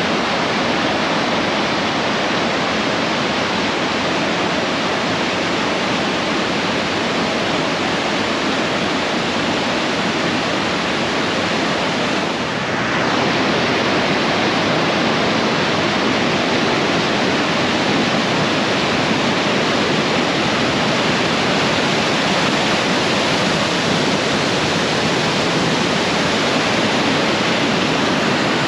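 Rushing water of a mountain waterfall: a steady, loud, even roar of falling water. About twelve seconds in it dips briefly, then carries on slightly louder.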